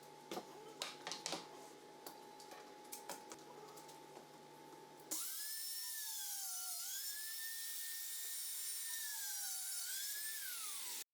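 Workpiece knocks and clicks, then a boring machine's high-speed drill motor starts with a sharp whine. Its pitch dips twice as the bit loads up boring a dowel hole into the wood, then winds down near the end.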